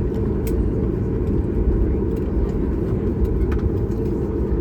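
Steady low rumble of a Boeing 737 MAX 8 cabin in flight, engine and airflow noise heard from inside, with a few faint clicks.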